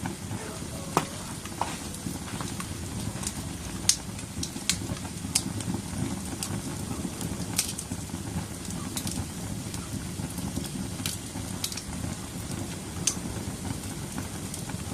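Wood bonfire burning: a steady low rush with about a dozen irregular sharp crackles and pops.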